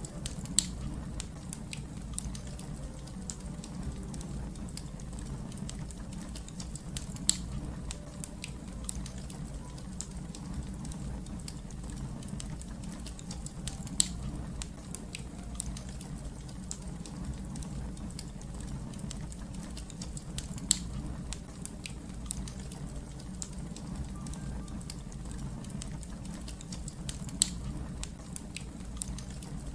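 Wood fire crackling, with a steady low rumble of flames under many small ticks and snaps. Five louder pops stand out, evenly spaced about seven seconds apart.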